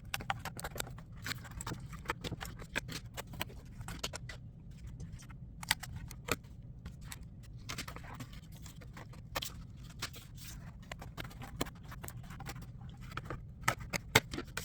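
Automotive carpet being cut by hand: a run of irregular sharp clicks and scrapes, over a faint low steady hum.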